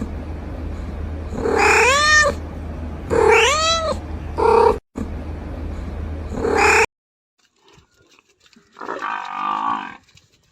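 Domestic cat meowing four times, each meow rising and falling in pitch, over a steady low hum that cuts off suddenly after about seven seconds. About nine seconds in, a single rougher, shorter animal call follows.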